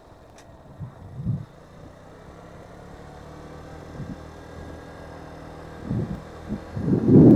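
Motorcycle engine running steadily under way, with wind buffeting the microphone in gusts, the loudest gust near the end.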